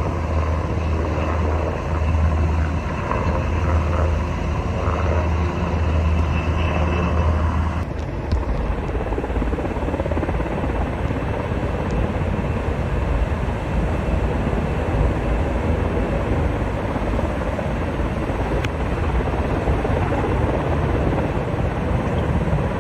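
Helicopter running with a low, pulsing hum from its rotor and engine. About eight seconds in, the sound changes abruptly to a steady, even rushing noise with a low rumble.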